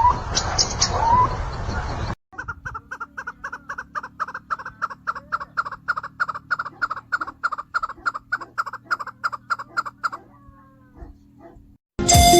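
Bird calls: short rising chirps at first, then after a cut a bird repeats one short call in a fast, even series of about four to five notes a second for several seconds, trailing off into a few faint calls.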